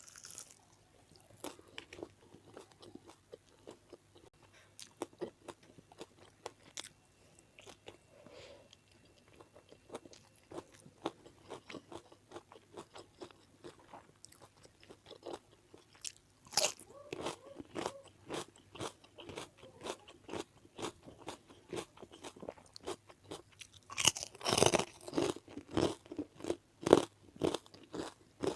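A person biting and chewing crunchy food close to the microphone, with sharp crisp crunches between quieter chewing, growing louder in the second half and loudest a few seconds before the end.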